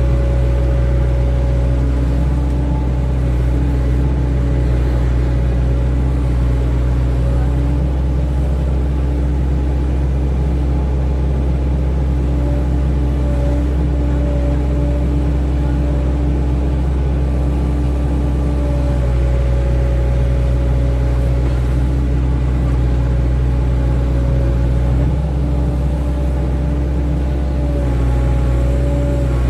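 Hydraulic excavator's diesel engine running steadily at working revs, with a steady whine above the engine note.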